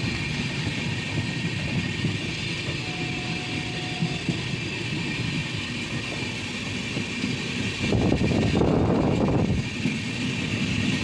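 Passenger train running at speed, its steady rumble of wheels on the rails heard from the coach's open doorway, growing louder about eight seconds in.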